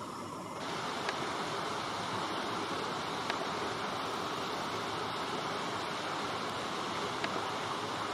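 Light rain falling on the leaves of the hillside vegetation: a steady, even hiss with a few faint ticks.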